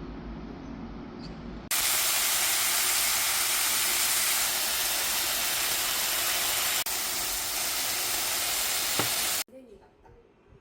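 A loud, steady hiss starting a couple of seconds in, with a brief break about seven seconds in, and cutting off suddenly near the end.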